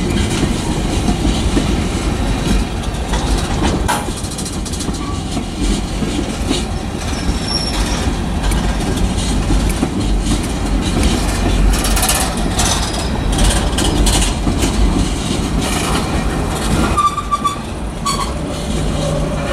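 Freight cars of a mixed manifest train (tank cars, boxcars, covered hoppers, gondolas) rolling past: a steady rumble of steel wheels on rail with clickety-clack over the rail joints. There are occasional sharp clanks and a couple of brief wheel squeals, one near the middle and one near the end.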